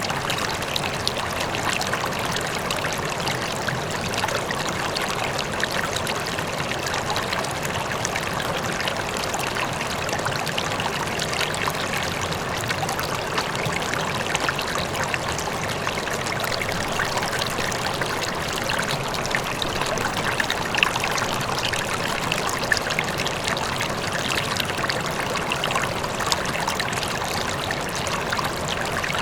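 River water flowing and splashing steadily over rocks, with many small bright splashes, and a faint waterfall blended in.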